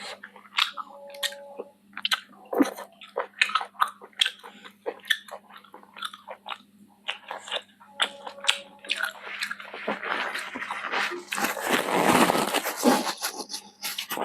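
Close-miked chewing and biting of chicken feet curry: a steady run of wet, crunchy clicks and crackles, growing denser and louder about ten seconds in.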